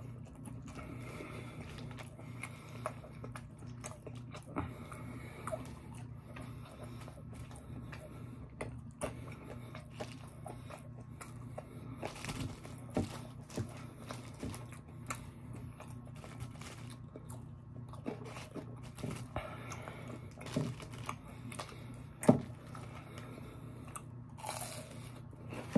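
Close-miked chewing and crunching of fried fast food, with scattered short clicks and crackles of eating, over a steady low hum.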